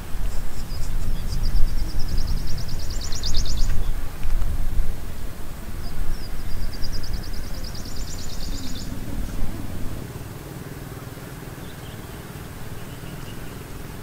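A small bird's rapid high trill, heard twice, each run of quick repeated notes lasting about two to three seconds, over an uneven low rumble of outdoor noise that eases off about ten seconds in.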